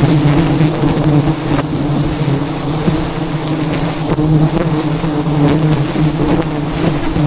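Swarm of wild honeybees buzzing around the comb, a dense, steady hum.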